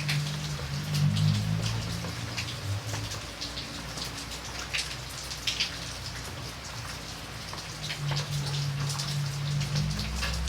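Steady rain with many separate close drop hits. A low steady hum sits under it for the first few seconds, fades, and comes back near the end.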